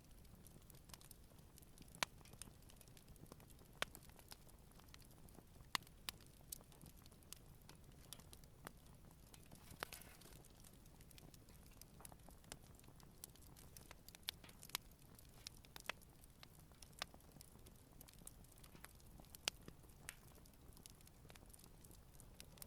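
Wood campfire burning gently: a quiet low background hiss with irregular sharp crackles and pops, a few of them louder.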